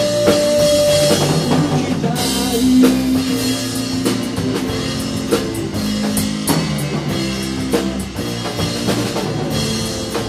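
A band playing an instrumental break in a rock arrangement of a Japanese folk song: drum kit keeping time under guitar and bass, opening on a long held note.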